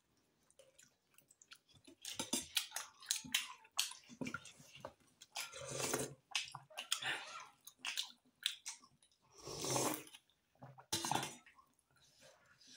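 Close-up eating sounds: chewing steamed momo dumplings, with many small wet clicks and smacks, and a few longer slurps from a spoon of soup.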